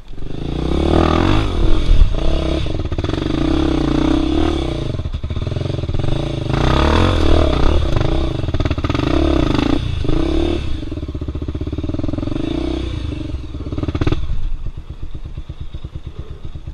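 Off-road motorcycle engine revving hard, the revs rising and falling over and over as the throttle is worked. It eases off and gets quieter near the end.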